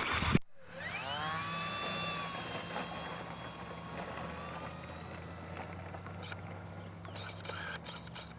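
Electric motor and propeller of an E-Flite Hurricane RC warbird throttling up. Its whine climbs steeply in pitch over about a second, then holds high and slowly fades as the plane pulls away. A short, loud rush of noise at the very start cuts off abruptly.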